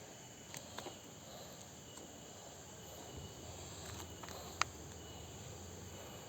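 Steady chorus of insects, high and thin, with a few sharp clicks, the loudest about four and a half seconds in.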